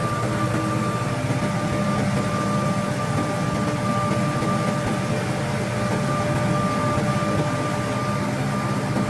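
A machine's engine running steadily at an even speed: a low drone with a steady high whine over it.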